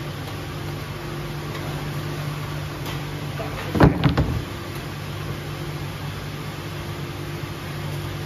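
Steady low machine hum of boiler-room equipment, with a short, loud clatter of knocks about four seconds in.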